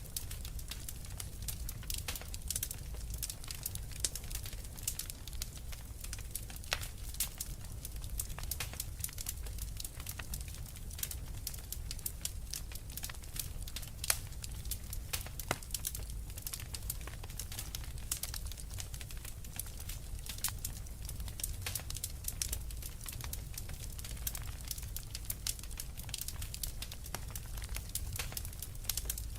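Wood fire crackling steadily, with many irregular sharp pops and snaps over a low rumble of the flames.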